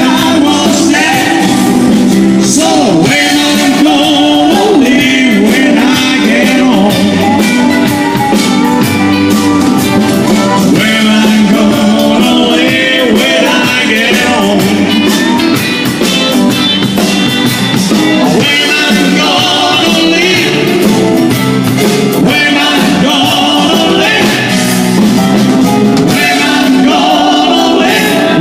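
A rock-and-roll style song: a singer over guitar and a drum kit, with a steady beat throughout.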